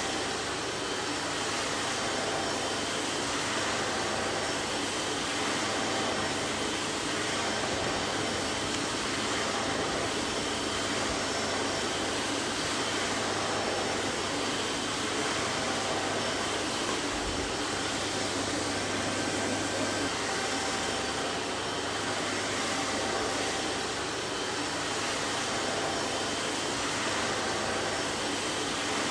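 Vacuum cleaner running steadily: an even, unchanging rush of air noise over a low motor hum.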